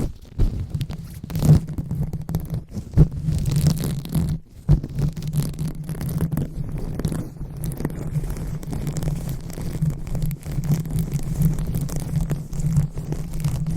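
Hands rubbing and scratching directly on a microphone: a dense rustling, crackling texture with many small clicks over a low rumble, with a brief dip about four and a half seconds in.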